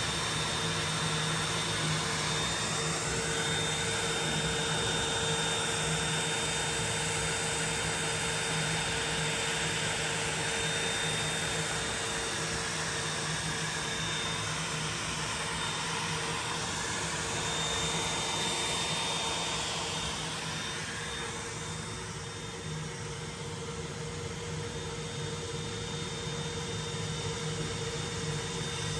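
Makita router on a OneFinity Elite Foreman CNC machine running steadily under cut, a constant motor whine and hiss that eases off a little about twenty seconds in.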